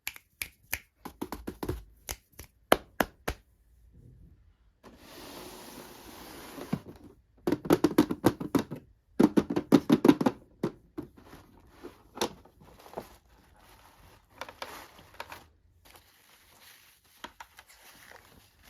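Toy packaging being handled and opened by hand: a run of sharp clicks and taps, then a steady rustle, then a few seconds of dense crackling, with lighter taps after.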